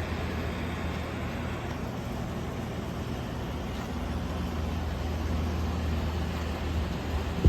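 2010 Everstar 10,000 BTU portable air conditioner running with its compressor on: a steady low hum under the blower's even rush of air.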